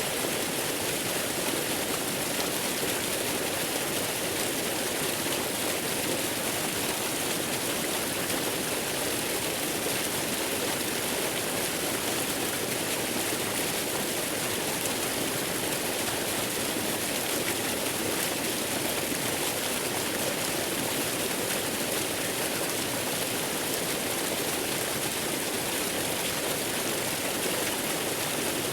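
Waterfall: a steady, even wash of falling water with no breaks or changes.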